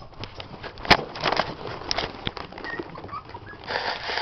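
Puppies moving about: a jumble of clicks and taps from paws, a few faint high squeaks, a sharp knock about a second in, and a stretch of rustling near the end.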